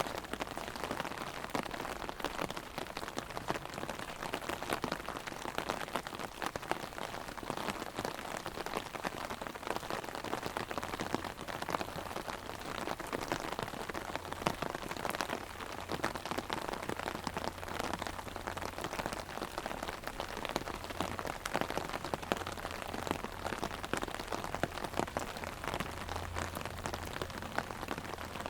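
Heavy rain hitting an umbrella overhead: a dense, steady patter of many drops.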